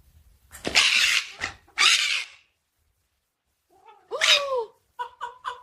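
A domestic cat hissing twice in loud, sharp bursts, then giving one short yowl that falls in pitch. Near the end a rapid series of short pitched pulses, about four a second, begins.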